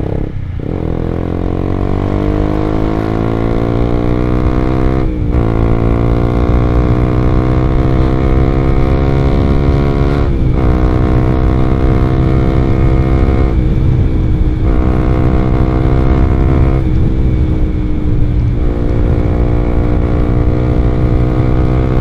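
Honda CBR150R's single-cylinder engine through an R9 aftermarket exhaust, pulling under acceleration and shifting up. The pitch climbs after short breaks about half a second, five and ten seconds in, then holds fairly steady.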